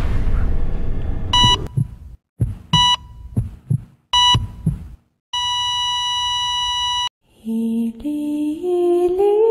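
A heart-monitor sound effect: three beeps about a second and a half apart over low heartbeat thumps, then a steady flatline tone for about two seconds that cuts off, the familiar signal of a death. Soft music notes rising in steps begin near the end.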